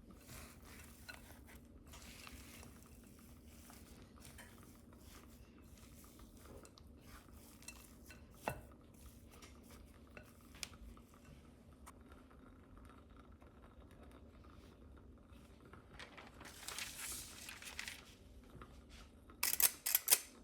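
Kitchen dishes and utensils being handled: scattered light clinks and knocks, a noisy scraping stretch a few seconds before the end, then a quick run of louder clatters near the end.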